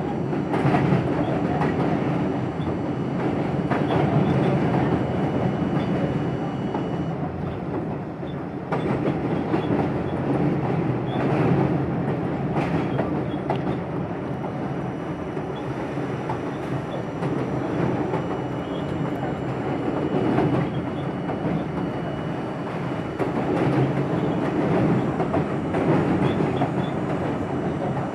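R42 subway car running between stations, heard from inside at the front window: a steady rumble of wheels on rail, with a sharp clack over the track every few seconds.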